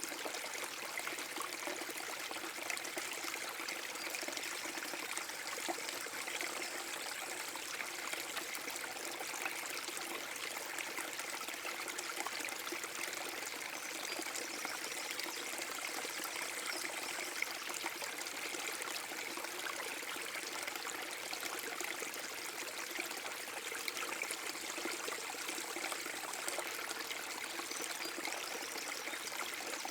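Water of a small forest-brook waterfall flowing and splashing steadily, with fine trickling and spattering.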